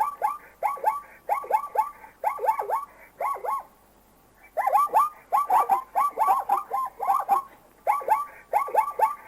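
A bird calling over and over in quick runs of two to four short notes, each sliding down in pitch, with a brief pause about four seconds in.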